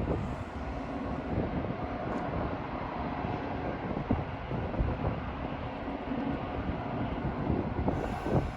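Steady rumble of a Metra commuter train moving through the station, with a few brief thumps.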